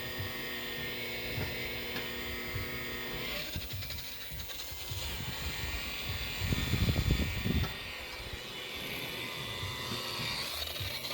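Handheld electric power tool, a rotary buffer or drill spinning a pad on fiberglass gelcoat, running with a steady motor hum. The hum drops away about three and a half seconds in, a louder low rumble comes around the middle, and the steady hum returns near the end.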